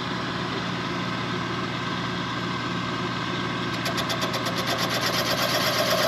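Machine-shop spindle running with a resharpened cutter, machining the rear main seal bore of a Chevy 400 engine block. It hums steadily, then about four seconds in the cut starts with a fast, even pulsing, about eight times a second. This is the cutter that chattered for lack of rake, now sharpened with more clearance and running a little better.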